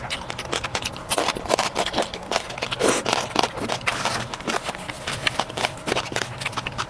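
Close-miked chewing and mouth sounds of a person eating beef and pork caldereta: wet smacks and clicks, several a second, irregular.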